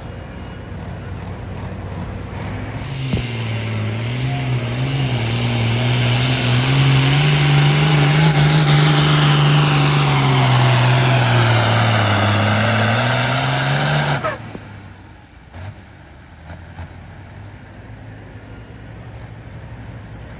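Pulling truck or tractor engine at full throttle on a hook, dragging the weight sled down the track. It grows louder as it comes on, its pitch sagging and recovering under load, then cuts off suddenly about fourteen seconds in as the power is shut down at the end of the pull.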